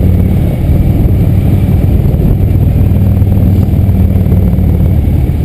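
Motorcycle engines running steadily, a deep low rumble with no clear change in pitch.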